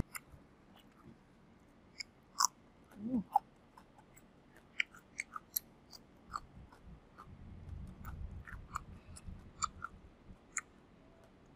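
Close-up mouth sounds of a person eating fried chicken: irregular wet chewing clicks and lip smacks, quiet and scattered.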